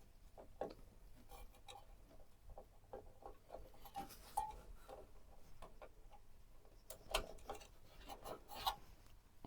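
Scattered light clicks and taps of computer hardware being handled and fitted during a PC build, irregular, with a few sharper clicks in the second half.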